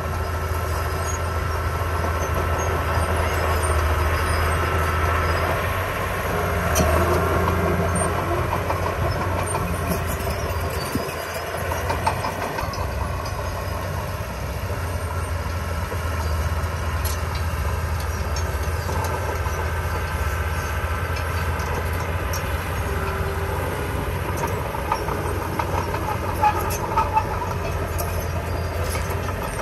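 Diesel engine of earthmoving machinery running steadily with a constant low hum, with metallic clatter throughout.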